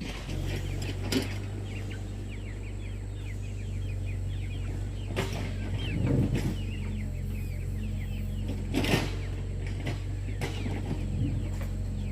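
Chickens clucking, with many short high chick peeps, over a steady low hum; a few short knocks now and then.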